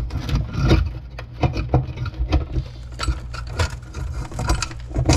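Irregular metallic clicks, knocks and rattles as an old metal electrical box and its wiring are worked loose and pulled out, over a steady low hum.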